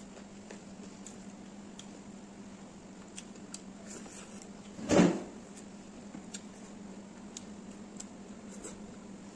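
Close-up eating sounds of a person eating rice and greens by hand: scattered faint clicks and smacks of chewing and lips over a steady low hum, with one short, louder sound about five seconds in.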